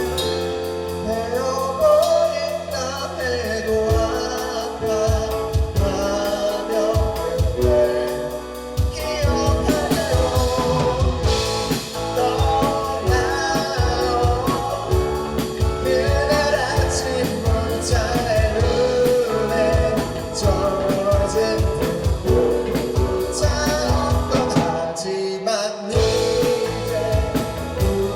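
A band playing a song with a lead singer over drums and instruments; about three seconds before the end the whole band stops for a beat, then comes back in.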